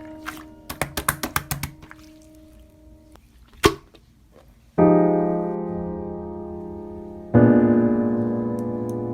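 Background piano music: held chords struck twice in the second half, each slowly dying away. Before them, a quick run of sticky clicks and pops from clear slime being squished, and a single sharp knock.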